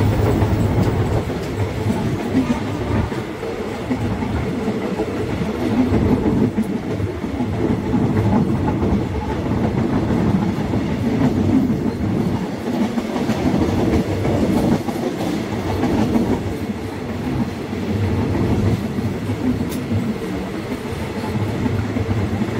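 Passenger train running along the track: steady running noise of wheels on rails, strongest in the low range.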